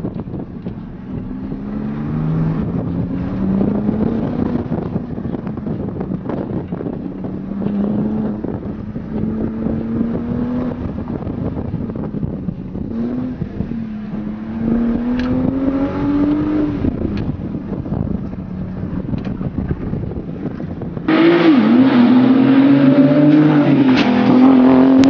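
Porsche 911 Turbo's twin-turbo flat-six, heard from inside the cabin, accelerating hard. The engine note climbs and drops back several times as it shifts up through the gears. Near the end it turns abruptly louder and rawer, heard from outside the car as it revs.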